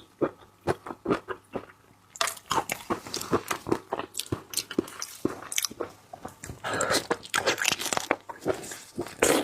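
Close-up eating of crab: crunching and chewing, a run of quick clicks and cracks that is sparse at first and busier from about two seconds in.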